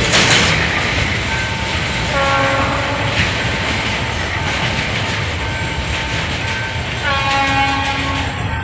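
Freight train of loaded hopper cars rolling away, its rumble and wheel clatter slowly fading. A diesel locomotive's multi-tone horn sounds twice further off: a blast about two seconds in and a longer one near the end.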